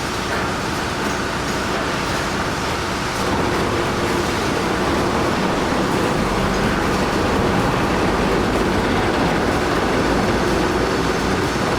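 Heavy machinery running: a loud, steady mechanical rumble and rattle that grows slightly louder about three seconds in.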